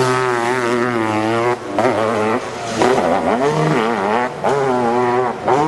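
Hill-climb motorcycle engine revving hard, its pitch rising and falling as the throttle is worked, with several brief dips in the sound.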